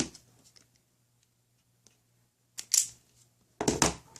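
Small handling noises of multimeter test probes and a power supply cord: a click at the start, a short scrape near the middle and a louder clatter near the end, over a faint steady low hum.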